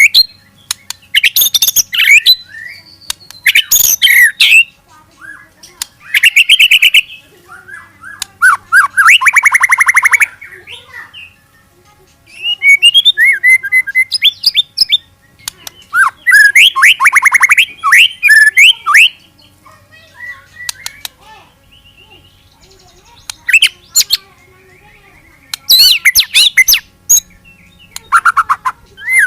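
A murai batu (white-rumped shama) singing loudly in separate bursts of varied whistles and sweeping notes, several of them rapid rattling trills, with short pauses between phrases. This is the fast, aggressive 'shooting' song that keepers use to provoke other birds.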